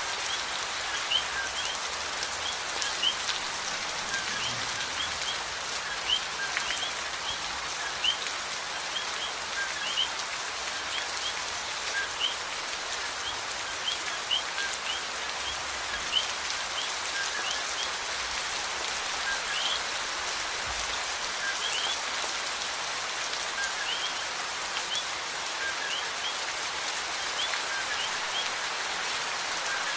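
Steady rain falling as an even hiss, with occasional louder drop hits. Short high chirps recur about once a second throughout.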